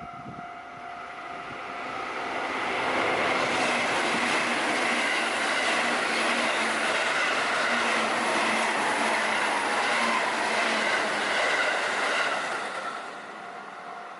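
A JR Biwako Line train passing through a level crossing: the rail and wheel noise builds over the first few seconds, holds loud with a clickety-clack for about ten seconds, then drops away near the end. The crossing's warning bell rings steadily underneath, and is heard clearly again once the train has gone.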